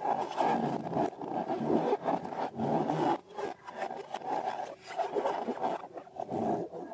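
Slime being worked by hand: an irregular sticky, crackling scrape and squish that comes and goes.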